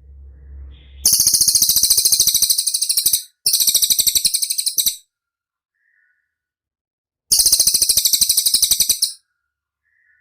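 A songbird's rapid high-pitched trill, the fast 'rol' type of song, given in three bursts of a couple of seconds each with short gaps between.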